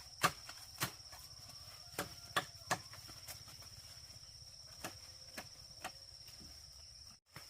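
A cricket's steady, high-pitched trill, with a handful of scattered sharp knocks over the first six seconds. The sound cuts out briefly near the end.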